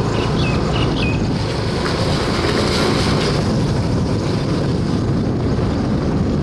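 Steady wind rushing over the microphone, mixed with the rumble of a moving vehicle on the road.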